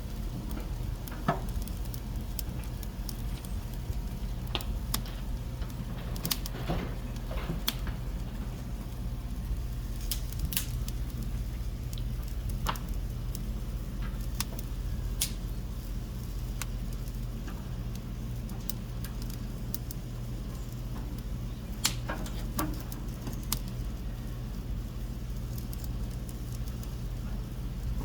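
Beef searing over hot charcoal: a steady sizzle with scattered crackles and pops from the coals.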